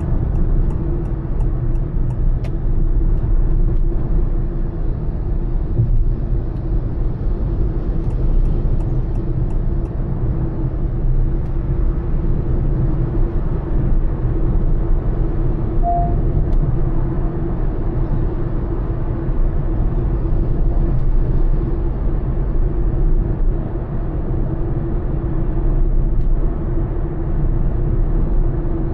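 Honda Elevate SUV cruising at highway speed: a steady low rumble of road, tyre and engine noise with an even hum running through it.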